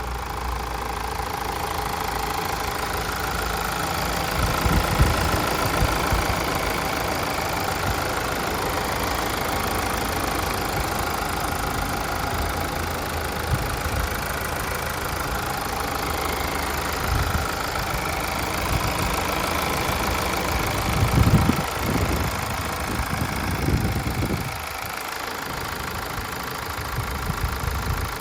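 Mazda Atenza's four-cylinder turbodiesel idling steadily with the typical diesel knock. A few brief low thumps come through around five seconds in and again past twenty seconds, and the sound drops slightly in level near the end.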